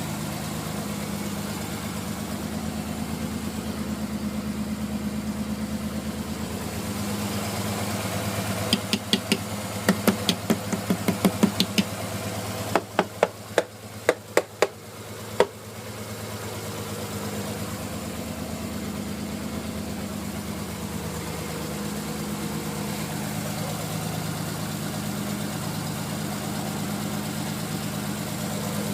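Nissan Skyline R33's straight-six engine idling with a misfire. About a third of the way in comes a run of loud, sharp knocks; the engine note then sags with a few more knocks before it settles back to a steady idle.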